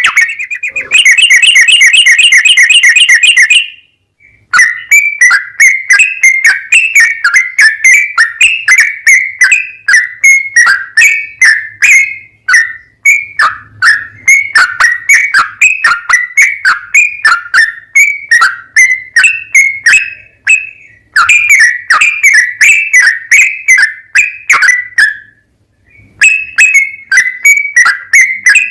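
Yellow-vented bulbul (trucukan) song: a fast trill, then a long chattering run of short, clear chirped notes, about two or three a second, each dipping slightly in pitch, with two brief pauses.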